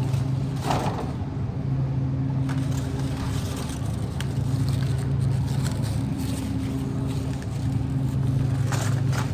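Shopping cart rolling across a store floor, a steady low rumble with light rattling clicks, easing off and picking up again as it moves and pauses.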